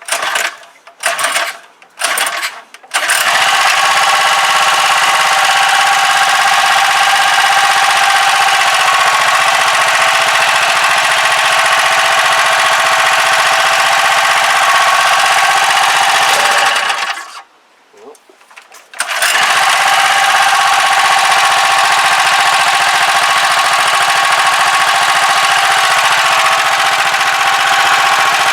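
Small four-stroke petrol engine of a Clarke pressure washer, pull-started after a few short pulls, then running steadily. It stops about seventeen seconds in and is restarted, running on steadily, while its pump fails to draw any water.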